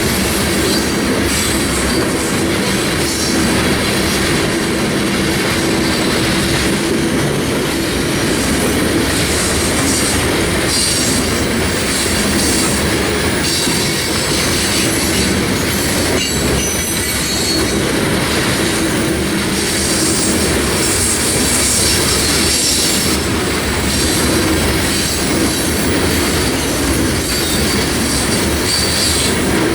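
A freight train's cars rolling past at a steady level, steel wheels running on rail.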